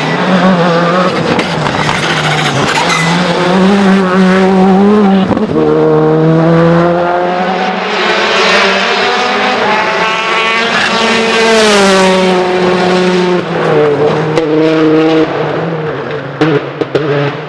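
Rally car engine at full throttle. The note steps down at a gear change about five seconds in, climbs for several seconds as the car accelerates, then falls away as it passes and lifts off. A few sharp cracks come near the end.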